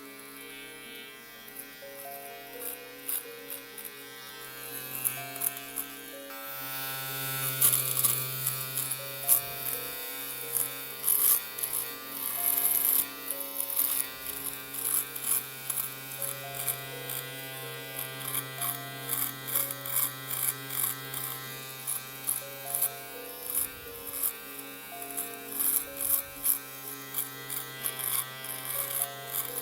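Electric shaver buzzing steadily, louder from about six seconds in, with many short scratchy strokes as it cuts through hair.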